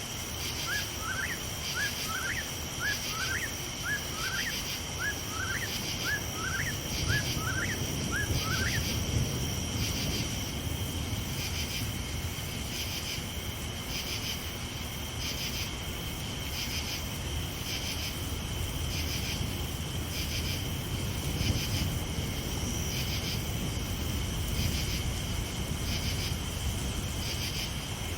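Crickets chirping in a steady, even pulse through the night. Over the first nine seconds a short rising call note repeats about once a second, about ten times. A low rumble runs underneath.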